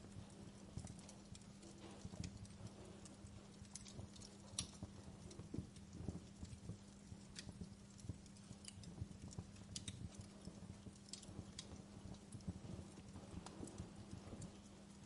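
Wood fire crackling in a fireplace: irregular small pops and sharp snaps from burning logs, a few louder than the rest, over a steady low hum.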